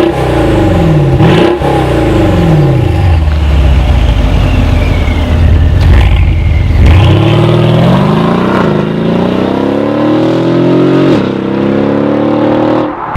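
Mercedes-AMG GLE63 Coupe's twin-turbo V8 through an Armytrix valved exhaust. The engine note falls a few times early, holds steady, then climbs under acceleration from about seven seconds in, drops sharply at an upshift about eleven seconds in, and climbs again.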